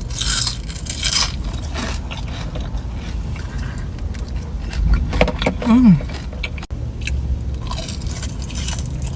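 A person biting and chewing fast food close to the microphone, with the loudest bites in the first second and a short falling hum from the eater's voice about six seconds in.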